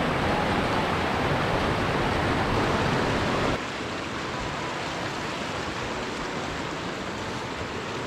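Steady rush of falling water from a waterfall or stream, dropping suddenly to a quieter level about three and a half seconds in.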